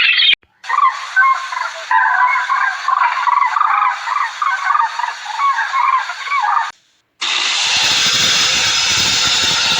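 A flock of birds calling together, many short overlapping calls of shifting pitch. After a short break near the seven-second mark, a steady rushing noise takes over.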